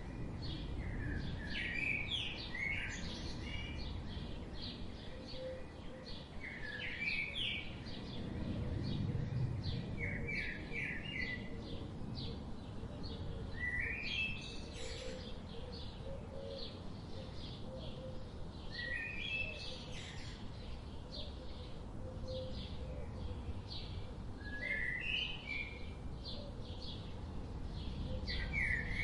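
Songbirds singing: one bird repeats a short, rising, stepped phrase every few seconds, about eight times, with fainter high chirps from other birds, over a steady low rush of running river water.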